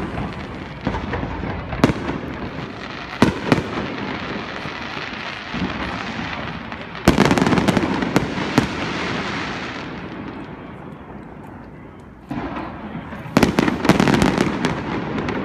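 Aerial fireworks display: shells bursting with sharp bangs, then a loud volley about seven seconds in, followed by crackling that fades over a few seconds. Another quick run of bangs comes near the end.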